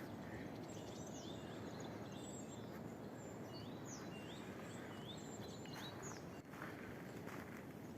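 Small songbirds chirping, with a quick run of four or five like notes in the middle, over a steady background hiss.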